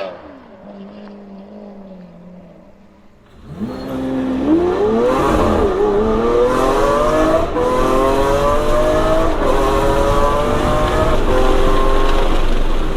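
Lamborghini Aventador's V12 through a Capristo aftermarket exhaust, accelerating hard. After about three fairly quiet seconds, the engine note comes in loud and climbs in pitch, dropping back briefly at two gear changes and then climbing again.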